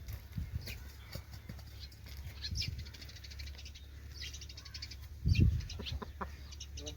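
Aseel chickens moving about, with wing flapping and short bird calls, and a loud thump a little after five seconds in.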